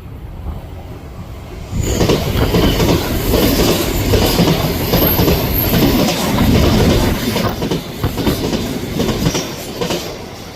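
Odakyu Line electric train passing close by at speed: wheels clattering over the rail joints, with a few brief high wheel squeals. It starts suddenly about two seconds in and dies down near the end.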